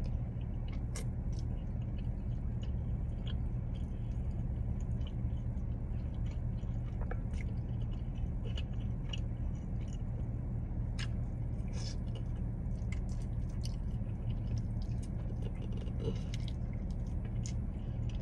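Close-up chewing and biting on a buffalo chicken wing, with scattered wet mouth clicks and smacks over a steady low hum.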